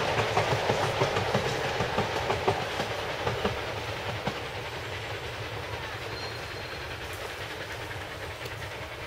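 Miniature railway train's carriages running over the track on a wooden trestle bridge, with a quick clatter of wheel clicks that fades steadily as the train draws away.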